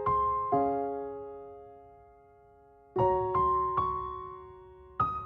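Background piano music: a couple of gently struck notes that ring and fade, a pause of about a second, then a slow run of single notes.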